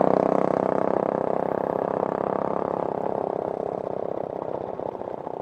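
A vehicle's engine running with a fast, even pulse, growing gradually fainter.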